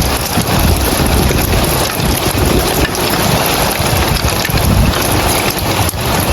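Rain falling on roof tiles as a dense, steady hiss, with wind buffeting the microphone in a rumbling, uneven low noise underneath.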